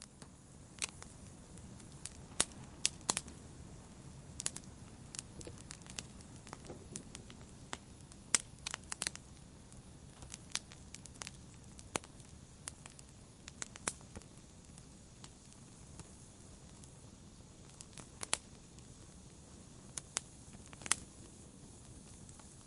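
Wood fire in a fireplace crackling: a low steady rumble of flames under irregular sharp pops and snaps, some much louder than the rest.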